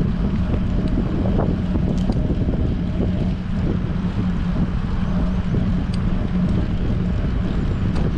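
Wind buffeting a bike-mounted action camera's microphone while cycling, a loud steady rush with a constant low hum underneath and a few faint ticks.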